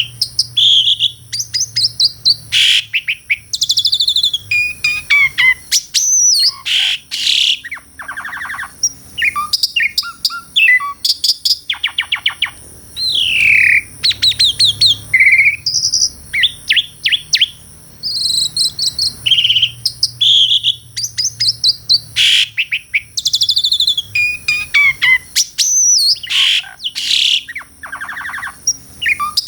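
Asian pied starling (jalak suren) singing a long, loud, varied song of clear whistles, rapid trills and harsh scratchy notes, with hardly a pause. The same string of phrases comes round again about eighteen seconds in.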